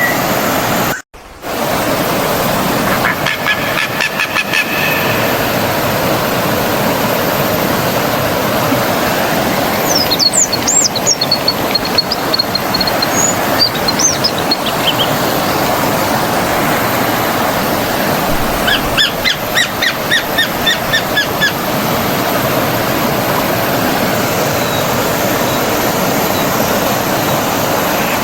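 Steady rushing of a flowing forest stream, with birds chirping over it: a string of high notes about ten seconds in and a quick run of repeated notes near twenty seconds. The sound drops out briefly about a second in.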